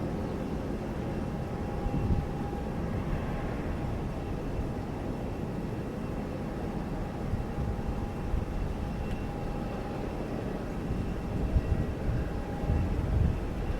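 Jet airliner engines running steadily: a low rumble with a faint high whine held on one pitch.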